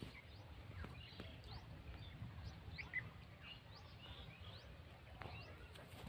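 Faint bird chirps: many short, quick rising calls scattered throughout, over a low steady rumble.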